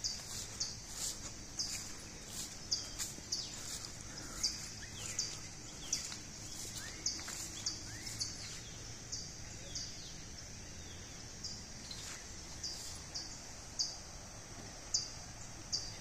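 Outdoor wildlife ambience: a short, high chirp repeats steadily about twice a second. A few rising whistled bird calls come in around the middle.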